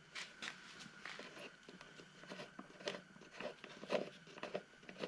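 Irregular light clicks and taps of plastic parts being handled as the lawnmower's air filter cover is opened and the filter taken out, a few knocks a little louder near the middle.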